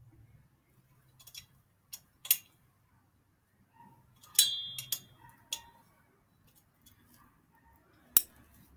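Metal hand tools clinking: Allen keys and bolt hardware knocking and clicking while the stem pinch bolt is tightened. About seven sharp separate clicks, one with a brief metallic ring about four and a half seconds in, and the loudest single knock near the end.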